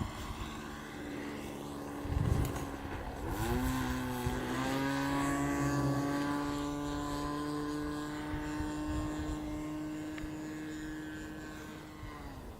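Model airplane's small combustion engine and propeller running as a steady high-pitched buzz. Its pitch dips and climbs back about three and a half seconds in, holds, then drops off near the end. Wind buffets the microphone about two seconds in.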